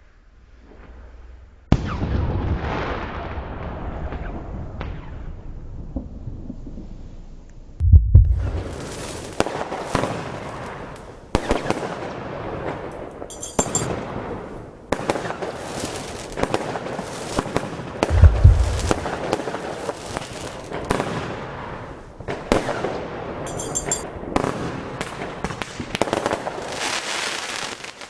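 Consumer firework rockets from the Helios Sidney assortment being set off: rushing launches and bursts with sharp cracks and crackling throughout. Two heavy booms stand out, about 8 and 18 seconds in.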